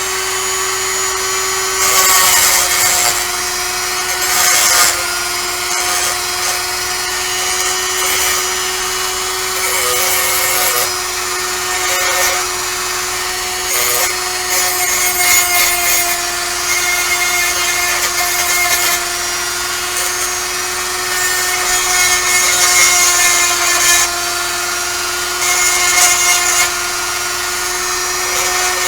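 Handheld rotary tool running at a steady high speed with a constant whine, while its pointed bit grinds and polishes a pewter cast. Repeated scratchy rasping bursts come each time the bit is pressed against the metal.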